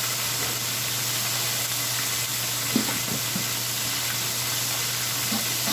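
Chicken breast frying in hot oil, a steady sizzle, with a few light knocks about three seconds in.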